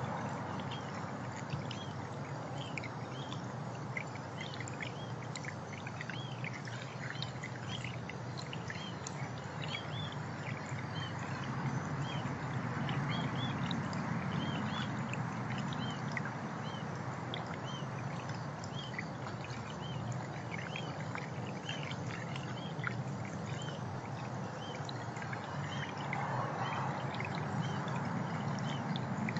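Small birds chirping: many short, high chirps scattered over a steady rushing background noise.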